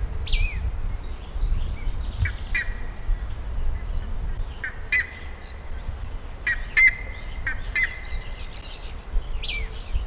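Buff-necked ibises calling: repeated sharp call notes, mostly in pairs, with a short falling call at the start and another near the end, over a steady low rumble.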